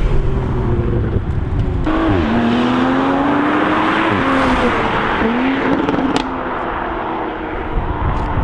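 Toyota GR Supra exhaust heard from outside, the engine note climbing under acceleration, easing off and climbing again.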